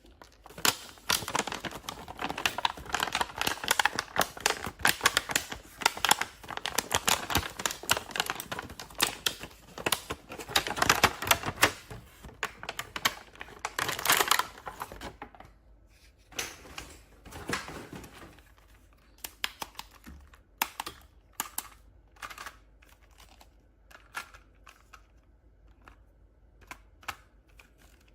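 Plastic toys and packaging being handled: dense, rapid crackling and clicking for about sixteen seconds, then sparser single clicks.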